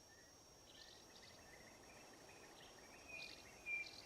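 Faint bush ambience: a steady high insect drone with short bird chirps coming several times, the loudest near the end.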